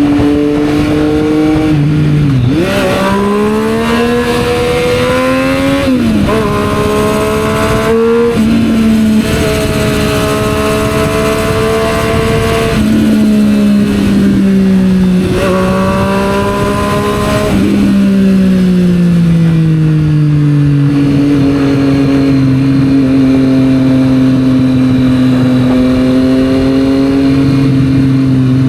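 Triumph Street Triple 765 R's three-cylinder engine through a Yoshimura aftermarket exhaust, ridden in traffic. It accelerates about two seconds in with quick gear changes around six and eight seconds in, holds a cruise, revs up again, then slows and settles to a steady low-rev run with road and wind noise underneath.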